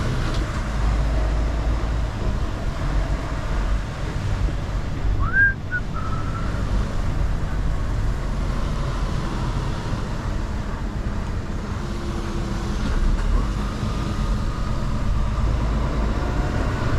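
Mercedes-Benz Actros L truck's diesel engine running steadily at low speed, with one short high squeak about five seconds in.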